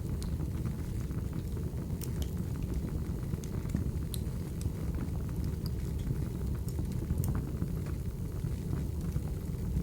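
Wood fire burning: a steady low rumble of the flames with scattered sharp pops and crackles from the logs.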